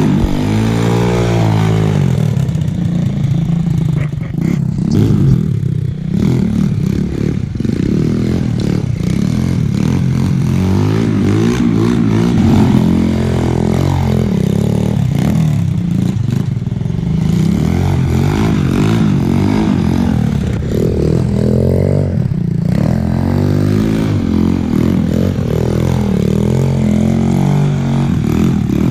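125cc gas dirt bike engine being ridden, revving up and down over and over, its pitch rising and falling with each twist of the throttle and shift.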